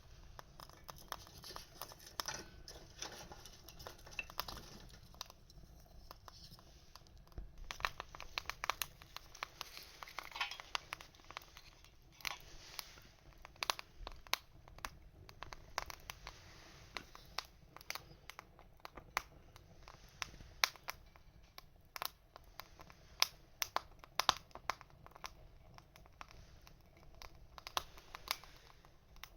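Small wood fire crackling, with irregular sharp snaps and pops that come thick and fast at times and sparser at others.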